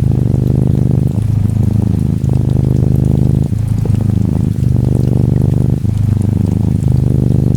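Norwegian Forest Cat kitten purring loudly and close, the purr coming in stretches of about a second, each broken by a brief pause at the turn of a breath. Faint gentle rain lies behind it.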